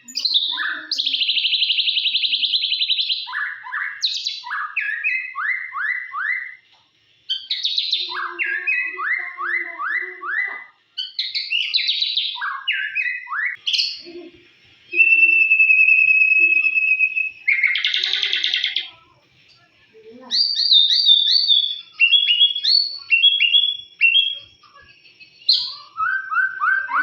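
White-rumped shama (murai batu) singing a long, varied song, of the kind played as a lure to provoke other shamas into singing: fast trills and runs of quick slurred notes, a long steady whistle about halfway through, then a short harsh buzzy note.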